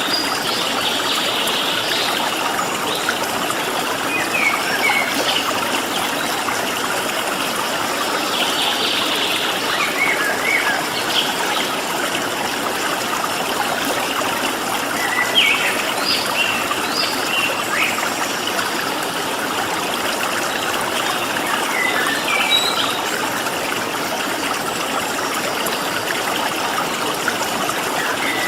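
Stream water running steadily, with short high chirps from small birds scattered throughout and brief buzzy trills about a second in and about nine seconds in.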